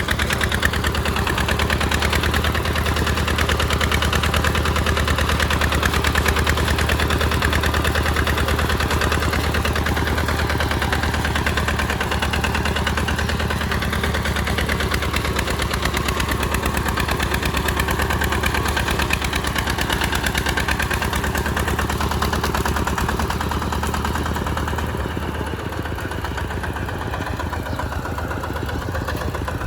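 RT140 Plus single-cylinder diesel engine of a walking tractor running steadily with a fast, even chugging while plowing in mud; it gets a little quieter about 25 seconds in.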